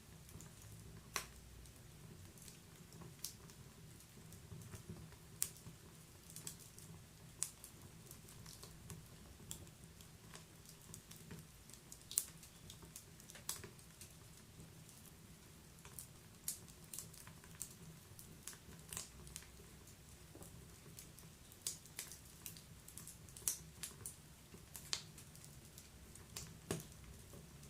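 Wood fire crackling in a fireplace: irregular sharp pops and snaps of burning logs, a few louder than the rest, over a steady low rumble.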